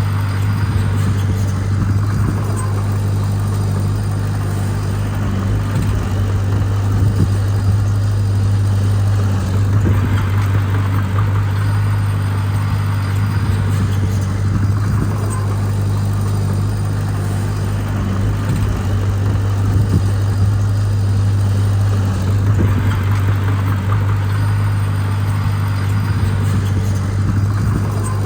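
Heavy diesel engine of earthmoving machinery running steadily at an unchanging pitch, with a rougher, busier sound swelling and easing twice, as the machine works under load.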